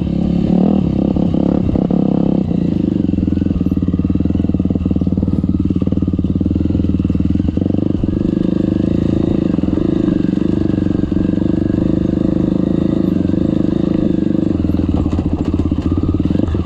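Trail motorcycle engine running steadily at a low, even pitch, riding through mud.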